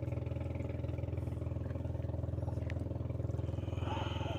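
An engine running steadily nearby, a constant pulsing hum that stays even throughout.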